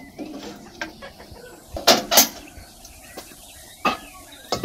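Firewood knocking in a brick oven's firebox and its metal door clanking shut: two loud knocks close together about two seconds in, and two more near the end.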